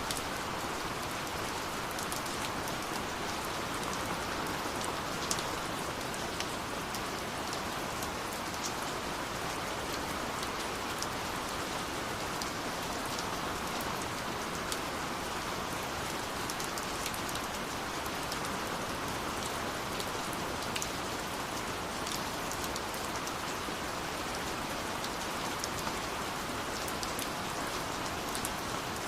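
Steady rush of a waterfall mixed with a wood fire crackling, its small sharp pops scattered irregularly through the water noise.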